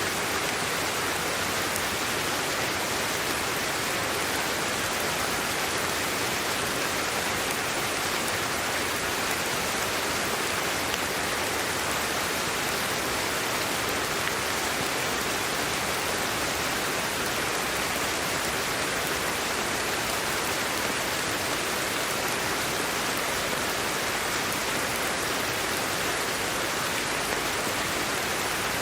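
Steady sleep-aid white noise: an even, unbroken hiss that stays at the same level throughout.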